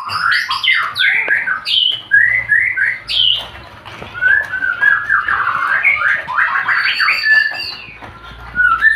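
Male white-rumped shama singing a fast, varied song of whistled and chattering phrases, its song packed with mimicked phrases (a 'full isian' song), with short breaks between bursts.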